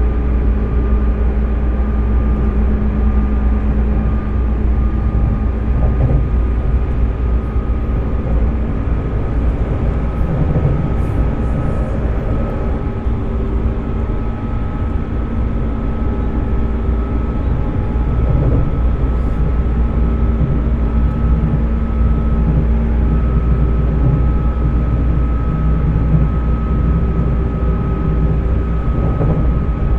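Running sound of a JR 205-series electric train car with MT61 externally-ventilated traction motors, at a steady speed. There is a heavy rumble of wheels on rail, under a steady motor-and-fan whine that holds its pitch.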